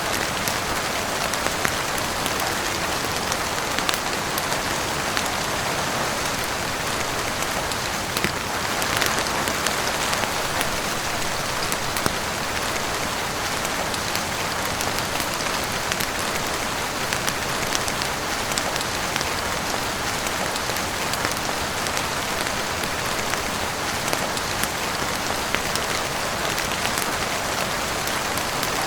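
Heavy rain falling steadily on a roof, an even dense hiss with scattered sharp ticks throughout.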